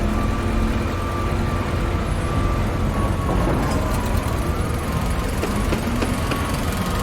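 Construction-site ambience: heavy machinery engines running with a steady low rumble, a faint steady whine above it, and a few light clicks in the middle.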